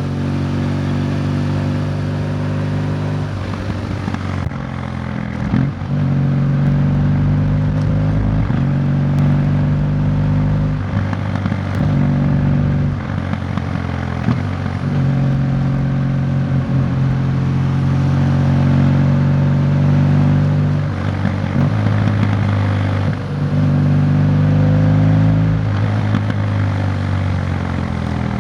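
Motorcycle engine running steadily at road speed, its note broken briefly several times along the way.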